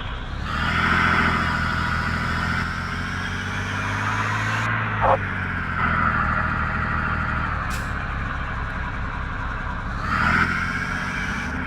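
Mercedes truck's engine running as the truck drives, its pitch rising and falling. There is one brief, loud, higher sound about five seconds in.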